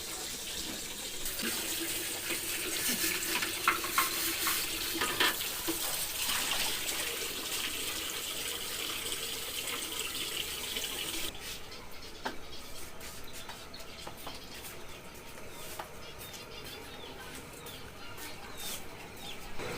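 Water running from a tap into a sink, with knocks and clatters of items being rinsed. About eleven seconds in the water stops abruptly, leaving scattered clicks and knocks of handling.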